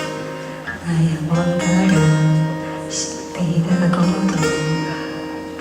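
A pop song played on guitar, with acoustic guitar strumming to the fore.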